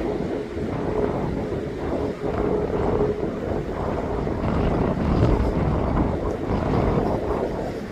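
Jet aircraft engine rumble with wind buffeting the microphone, steady and loud, with a faint steady tone over the first few seconds.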